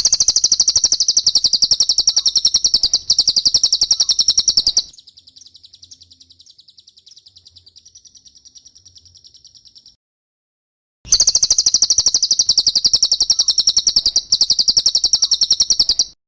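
Cililin bird singing: a loud, very rapid, high-pitched trill of repeated chirps in two runs of about five seconds each. Between the runs come a softer, thinner trill and then a pause of about a second.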